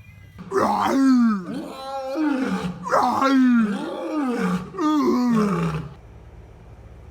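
A cat yowling: about five long, drawn-out calls in a row, each sliding down in pitch.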